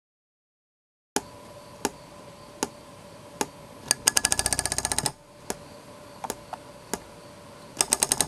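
Rubber-band model airplane propeller turning and clicking as the hook of its metal propeller shaft knocks against the white plastic nose bearing, a sign of a bent shaft. Single clicks come about once a second, with a fast run of clicks about four seconds in and another quick burst near the end.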